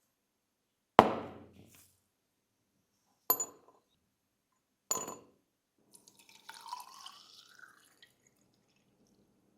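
Three sharp clinks of small hard objects set down or struck on a hard surface, each ringing briefly, the first the loudest, followed by a couple of seconds of quieter scraping.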